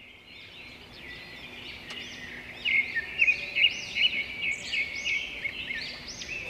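Birds chirping and twittering: many short, quick chirps, faint at first and louder from about two and a half seconds in.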